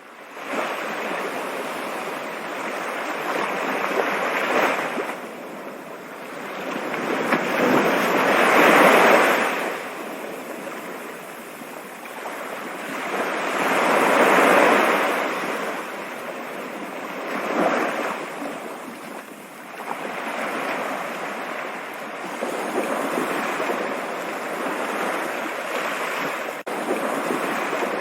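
Rushing water: a steady hiss-like rush that swells and eases every few seconds, loudest about nine and fourteen seconds in.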